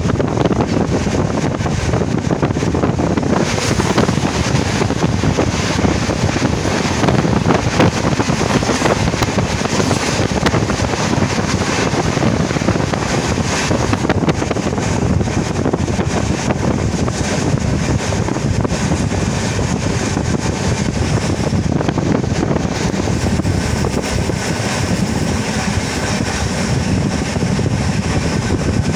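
Steady rushing noise of a moving train heard from a carriage window: running noise from the wheels on the rails mixed with wind buffeting the microphone.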